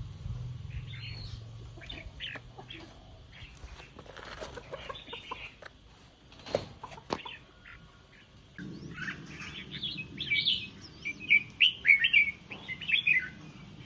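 Red-whiskered bulbuls calling with short chirps and quick warbled notes. They are scattered at first and become a dense run of loud chirps in the second half, with two sharp clicks near the middle.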